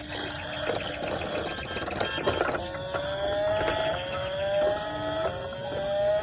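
Electronic toy sound effect: a rising tone repeated about four times, each about a second long, over clicking and rattling of plastic toys.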